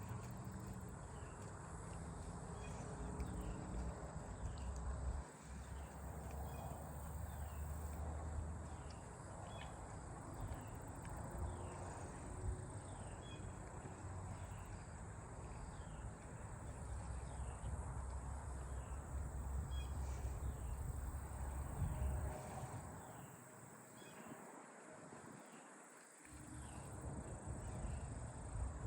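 Outdoor ambience: a low, uneven rumble that briefly drops away a few times, with faint, scattered insect chirps over it.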